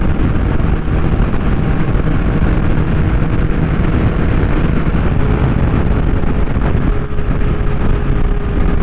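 Kawasaki Ninja H2's supercharged 998 cc inline-four running steadily at cruise through an unbaffled Vandemon exhaust, with wind on the microphone.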